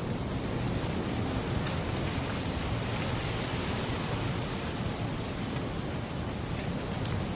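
Steady wind noise blowing, mixed with the fine crackle of a wood fire in a fireplace.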